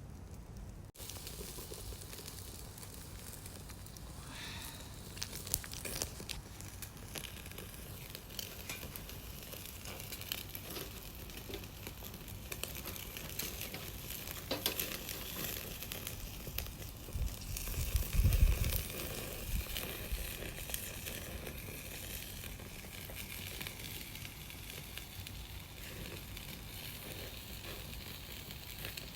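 Wood fire burning: a steady hiss with scattered pops and crackles, a few sharper snaps among them. A brief low rumble a little past halfway is the loudest moment.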